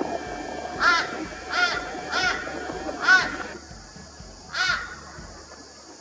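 Five short, harsh cawing bird calls, each arching up and down in pitch. The first four come about two-thirds of a second apart, the loudest is the fourth, and the last follows after a pause of about a second and a half.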